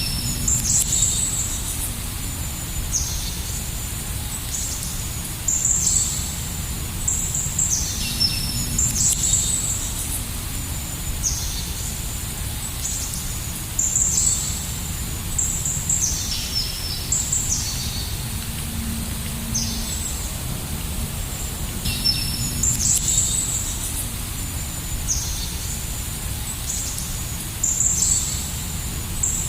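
Birds calling: repeated short, high chirps that each sweep downward in pitch, coming in quick runs throughout, over a steady low background noise.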